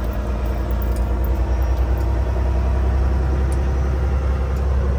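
Semi-truck diesel engine running steadily with a low, even drone.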